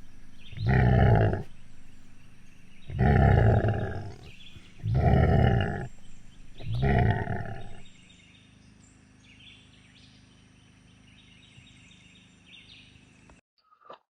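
Four dubbed-in growl sound effects, each about a second long and roughly two seconds apart. After them only a faint background is left, and that cuts off near the end.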